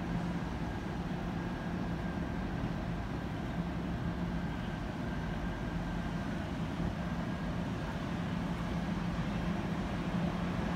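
Puyuma (TEMU2000) electric tilting express train pulling slowly into a station platform. A steady running hum with a low tone, getting slightly louder near the end as it draws closer.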